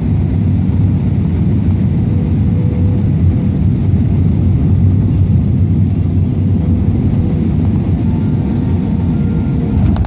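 Small aircraft's engine and propeller giving a steady, loud low drone.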